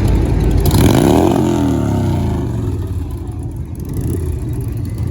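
A car engine revving, loud, its pitch climbing about a second in and then falling away, over the steady low rumble of other engines.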